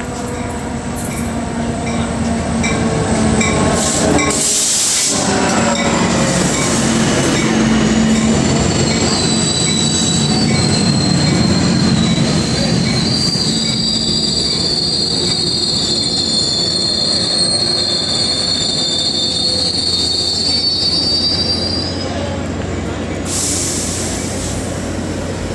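Passenger train running into the station, its wheels squealing on the rails in high, wavering whines through the middle of the passage over a steady rumble. There is a short burst of hiss about four seconds in, and another near the end.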